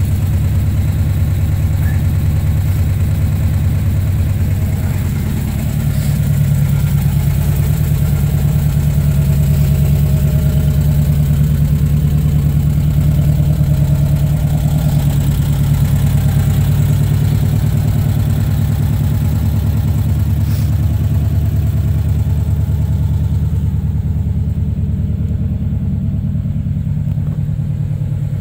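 1970 Volkswagen T2 campervan's 1600 air-cooled flat-four engine idling steadily.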